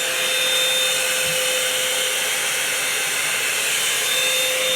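Revlon One-Step hair dryer brush blowing steadily on its high setting, a loud even rush of air with a steady motor hum and whine.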